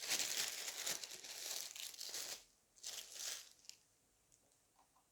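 Food packaging crinkling and rustling as it is handled, a long stretch of rustling and then a shorter burst about three seconds in.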